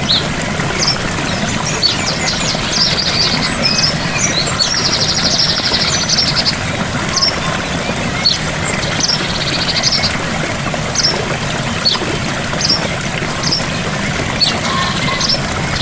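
Small waterfall rushing steadily, with a bird singing over it: several rapid trills of about a second each and short high chirps in between.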